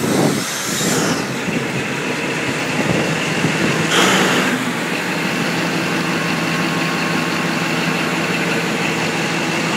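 Cat 789C haul truck's 3516B sixteen-cylinder quad-turbocharged diesel engine starting up and settling into a steady idle. There is a brief hiss about four seconds in.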